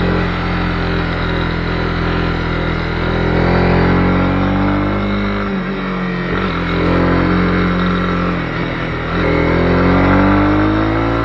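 Honda CB250R's single-cylinder engine running under way, its pitch rising and falling several times as the throttle opens and closes, over steady held tones of background music.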